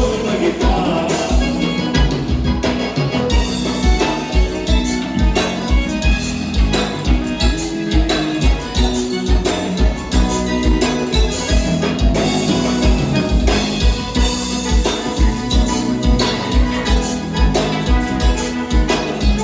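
Live gaúcho dance-band music, an instrumental passage with a steady bass-drum beat under sustained melodic notes.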